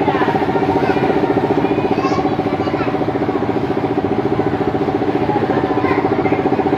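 Motorcycle engine running steadily at an even speed, with a fast, even pulse.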